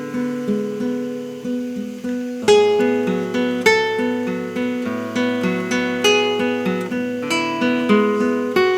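Solo acoustic guitar playing a melody of single plucked notes over a held bass note, beginning to fade out near the end.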